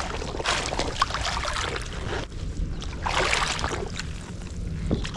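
Small lake waves washing and splashing at the shore in two louder surges, over a steady low rumble.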